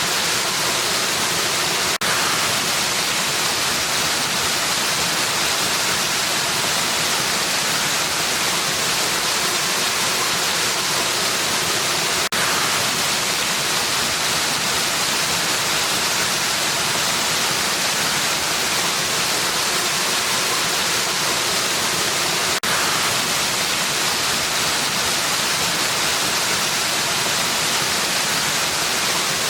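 Steady rushing of falling water from a waterfall: an even hiss, strongest in the high end, broken only by a tiny break about every ten seconds.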